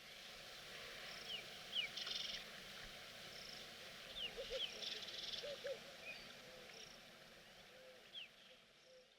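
Faint wild-outdoors ambience: a steady hiss under scattered short, falling bird chirps, a few brief buzzy trills and some low paired calls around the middle, fading slightly near the end.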